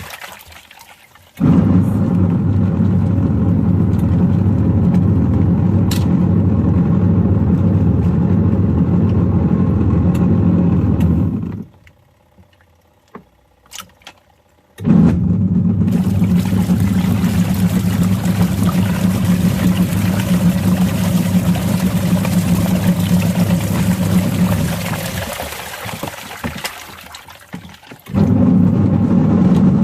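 Washing machine motor running a wash cycle, churning water with plastic toy tools in the drum. It runs for about ten seconds, stops for about three with a few light clicks, runs again, winds down, and starts up once more near the end.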